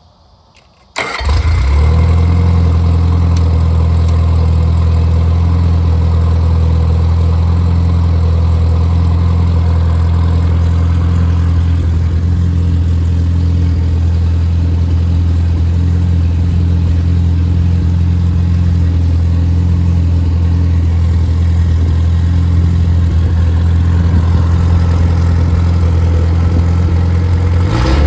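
Freshly rebuilt Triumph Spitfire 1500 inline four-cylinder engine, built with a 270 cam and raised compression, starting suddenly about a second in and then running steadily at an even speed.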